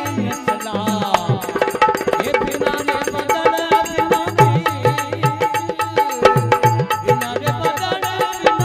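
Instrumental passage of a Rajasthani devotional bhajan: a hand drum beats a steady rhythm with sharp percussive clicks under a held melodic tone, after a sung line ends about a second in.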